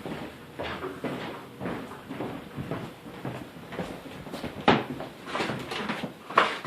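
Footsteps at about two a second while walking, with two louder, sharper knocks near the end, typical of a door being opened and banged shut.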